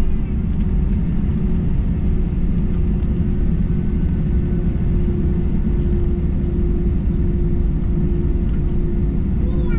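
Jet airliner cabin noise on the ground just after landing: a steady low rumble with a steady hum over it.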